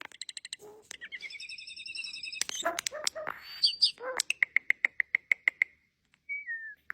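Starling singing a varied song: a rapid clicking rattle, a wavering warble that rises at its start, quick whistled notes, then a fast even run of clicks about ten a second, ending with a short falling whistle.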